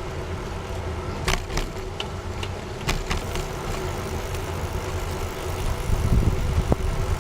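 Steady low rumble of riding a bicycle along a trail, with a few sharp clicks about a second in and again about three seconds in.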